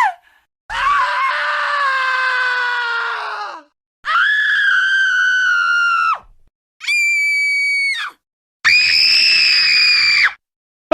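Wilhelm scream stock sound effect, played four times in a row with short silences between, each a held scream at a different pitch. The first is the lowest and longest and drops away at its end; the later ones are higher and shorter.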